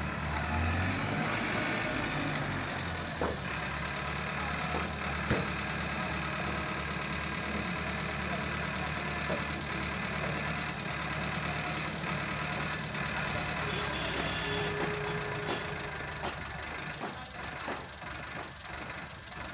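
Tata dump truck's diesel engine idling steadily, with a few brief knocks, getting quieter near the end.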